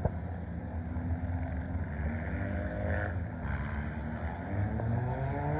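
Scramble race car engines running on the track, their pitch sliding down about three seconds in and climbing again near the end as cars pass and accelerate.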